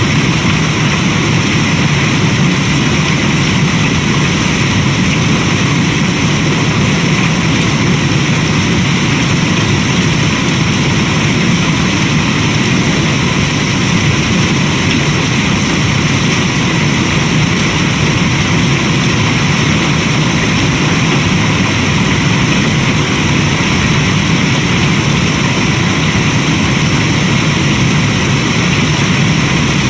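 Steady rain, an even rushing hiss, mixed with the crackling of a wood fire in a fireplace.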